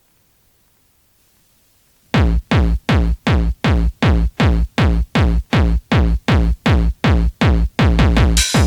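Electronic dance music: a brief near-silent gap, then about two seconds in a loud, heavy drum-machine kick starts pounding about two and a half beats a second, the opening of a hardcore/bouncy techno track. Near the end, higher hissing synth sounds join the beat.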